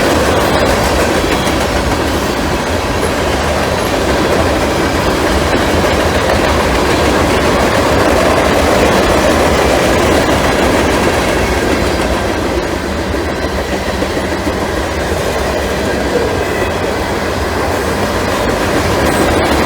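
Train passing close by, a loud steady rumble of wheels on the rails that runs without a break.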